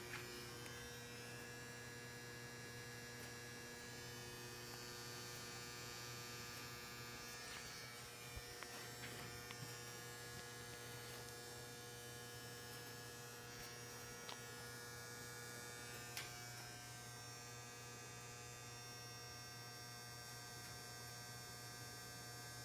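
Steady low buzzing hum from a home boiler, with a few faint clicks in the middle; the owner takes the buzz as a sign the boiler needs replacing.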